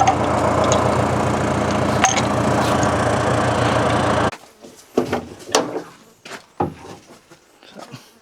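An engine running steadily, then cutting off abruptly a little over four seconds in. Scattered knocks and light metal clinks follow.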